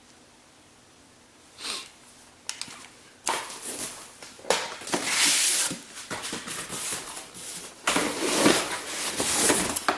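Packaging rustling and crinkling in irregular bursts as items are unwrapped and handled, starting after a short rustle about two seconds in and growing louder and busier from about three seconds on.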